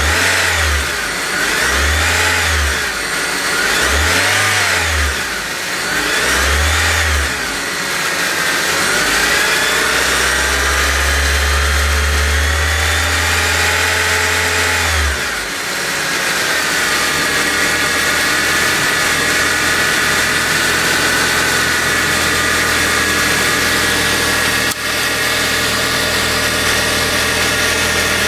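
2008 Honda Civic engine blipped four times about every two seconds, then held at higher revs for about five seconds before dropping back to idle, with a whine whose pitch rises and falls with engine speed. The owner links the whine to newly installed pulleys.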